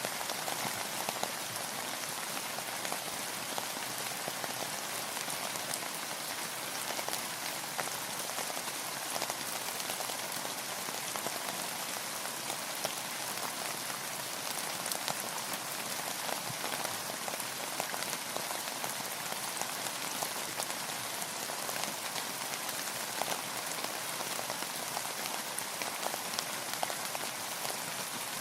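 Steady rain falling, a dense even patter of many small drops hitting a surface, with no let-up or change.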